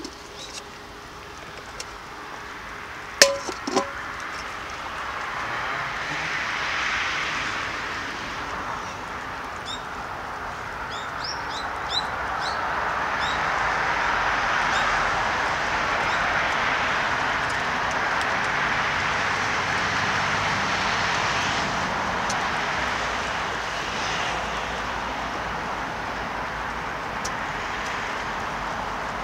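Steady outdoor noise that swells and fades like passing traffic, with a sharp knock about three seconds in and a few short high chirps around ten seconds in.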